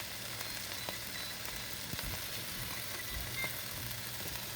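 Chicken breasts searing in a frying pan: a steady sizzle with a few faint pops, as they brown on the first side before being flipped.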